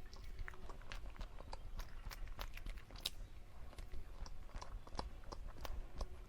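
Close-miked chewing of dessert: soft, wet mouth clicks and light crunches at an irregular pace, several a second.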